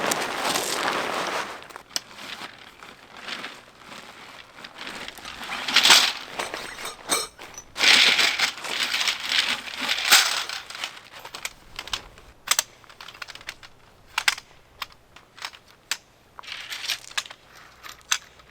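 Irregular crinkling and rustling of material being handled, broken by scattered sharp clicks and knocks, loudest near the start and in the middle.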